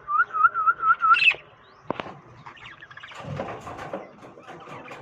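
Pet lovebirds calling: a quick run of five repeated whistled chirps, then a louder, higher call, followed after a sharp click by a burst of scratchier chatter.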